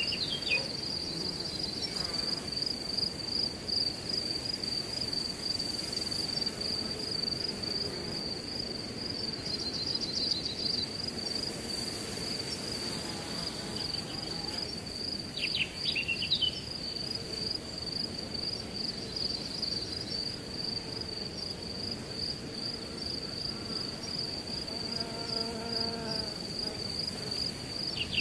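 Crickets trilling steadily over a low rush of wind through grass. A bird gives a short burst of quick calls about halfway through and again at the end.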